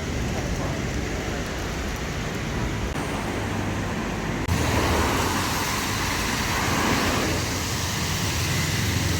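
City street traffic: a steady wash of vehicle engines and road noise, with an abrupt change in the sound about four and a half seconds in.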